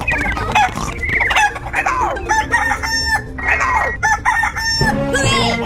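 Chickens clucking in many short calls, with a rooster crowing.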